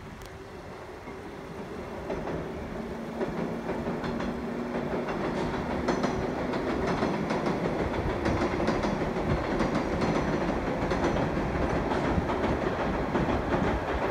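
JR Nara Line electric commuter train crossing a steel girder railway bridge. The rumble grows over the first few seconds and then holds steady, with repeated clacks of the wheels over the rail joints.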